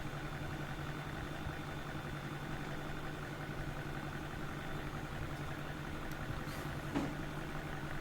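A steady low machine hum, like a fan or motor running, with one light click about seven seconds in.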